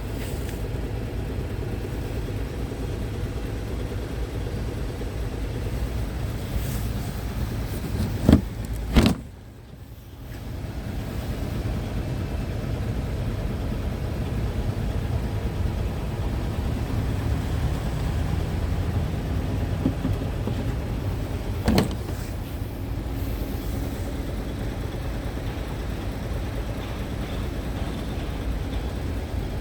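Scania R tractor unit's diesel engine idling steadily, with two sharp knocks about eight and nine seconds in, a brief dip in the sound just after, and another knock about two-thirds of the way through.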